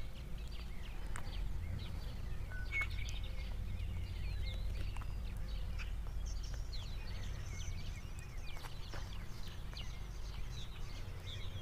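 Birds chirping, many short calls and quick chirps scattered through, over a steady low rumble.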